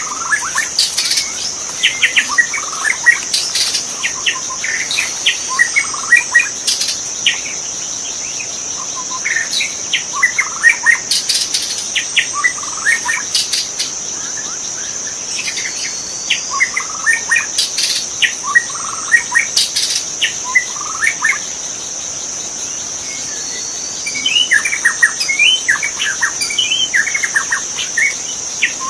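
White-rumped shama singing in bouts of quick, varied whistled and chattering phrases, with brief lulls between bouts. Under it runs a steady high-pitched insect drone.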